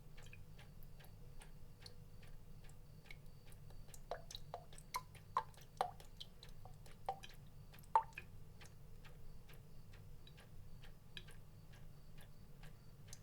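Water drops falling, a steady run of small ticking drips about three a second. Between about four and eight seconds in, a handful of louder plinking drops, each with a short rise in pitch. A faint low hum runs underneath.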